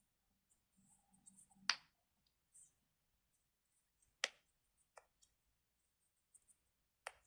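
Silicone pop-it fidget bracelet bubbles being pressed: four sharp pops spaced a second or more apart, with faint small clicks in between.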